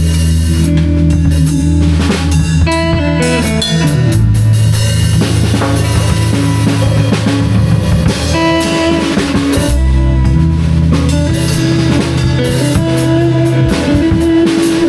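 Live band improvising: a drum kit keeps a steady beat under guitar, with low held notes that shift every second or two.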